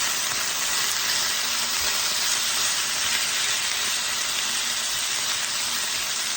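Chicken pieces frying in a hot pan, sizzling with a steady, even hiss.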